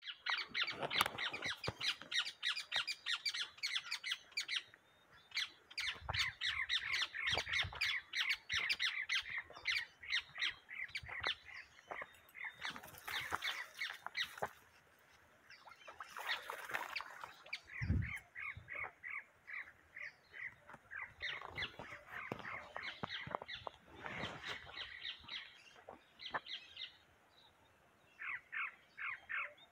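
Birds calling in rapid runs of short chirps, several a second, repeating throughout, with a single dull thump about eighteen seconds in.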